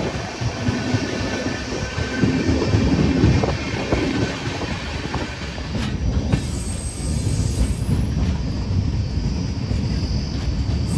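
Train running past close by on the rails: a steady rolling rumble with wheel clatter and knocks. A high wheel squeal comes in during the second half.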